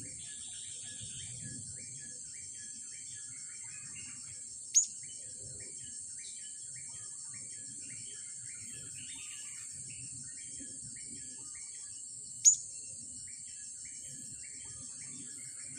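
A steady high drone of insects runs throughout, with a bird repeating short chirps over and over. Twice, about eight seconds apart, a single sharp, high call with falling pitch stands out loudest.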